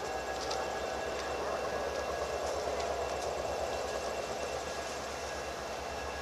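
A train rolling by with a steady rumble and rush of noise from the passing cars.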